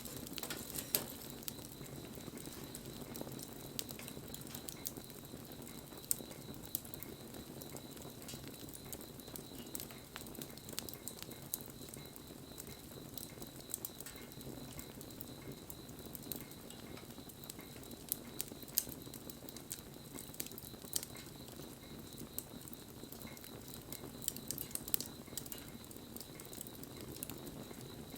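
Wood fire burning, with a steady soft rush and irregular sharp crackles and pops from the burning wood.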